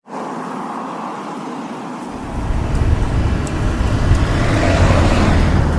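Motor vehicle and road noise: a steady hiss, then a low rumble comes in about two seconds in and grows louder toward the end.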